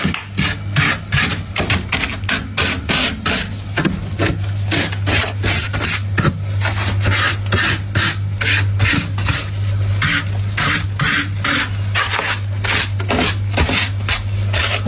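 Crunchy freezer frost being chewed, close to the microphone: rhythmic crunches about two to three a second over a steady low hum.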